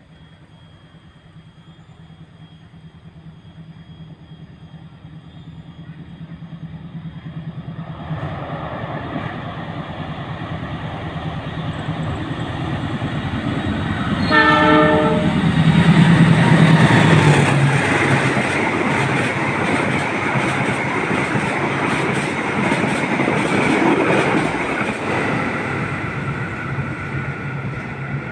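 CC 206 diesel-electric locomotive hauling a stainless-steel passenger train, approaching and passing: its engine drone grows steadily louder, a short horn blast sounds about halfway through, then the locomotive goes by at its loudest. The coaches follow with a sustained rumble and clatter of wheels on the rails.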